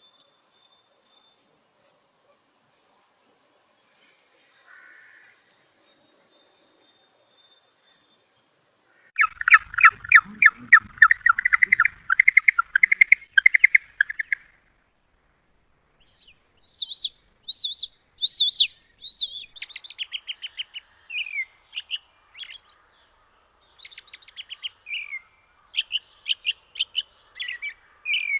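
Songbirds singing: high thin chirps repeated about twice a second, then a fast, loud trill lasting about five seconds, then varied song phrases with short pauses.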